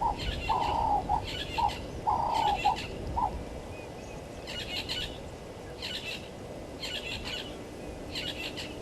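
Wild birds calling at a bushveld waterhole: a dove's low cooing phrases, a longer note followed by short ones, repeat for the first three seconds, while another bird gives high chirping bursts about once a second throughout.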